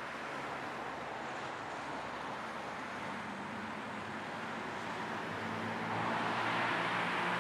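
Steady road noise of a car driving: a tyre and engine hum under an even hiss, growing a little louder about six seconds in.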